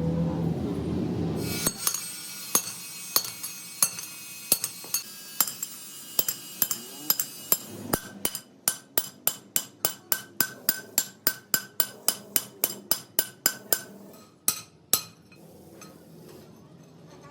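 Hammer blows on steel, each one ringing: spaced strikes at first, then a steady run of about three a second for several seconds, stopping about fifteen seconds in.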